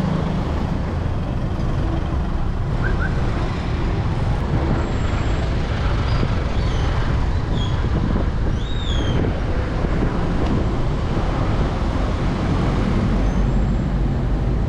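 Wind buffeting the camera microphone on a moving bicycle, a steady low rumble mixed with the noise of slow road traffic around it. A few faint short high squeaks come near the middle.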